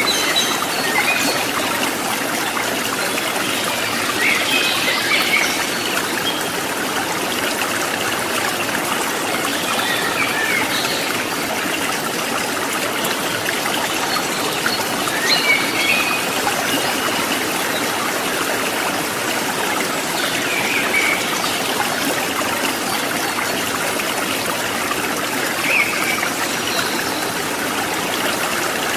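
Stream water trickling and babbling steadily, with short high bird chirps breaking in every few seconds.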